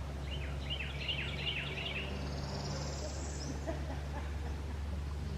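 A songbird calling a quick run of short, sliding chirps in the first two seconds, followed by a fainter high trill, over a steady low outdoor rumble.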